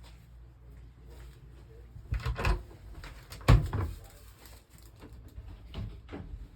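Storage doors and hatches on a boat's interior being opened and shut: a few knocks, the loudest about three and a half seconds in.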